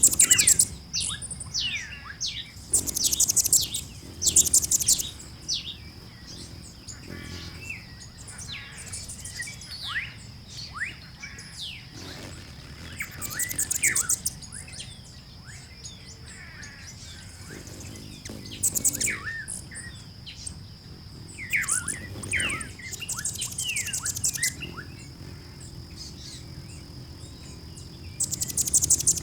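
A chorus of wild birds chirping, with many short falling notes and a high, buzzy trill that comes back every few seconds. A steady high-pitched tone runs under it throughout.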